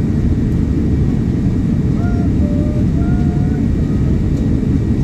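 Steady, loud roar of engine and airflow noise inside the cabin of a Boeing 787-9 Dreamliner in flight. A faint voice is heard over it a couple of seconds in.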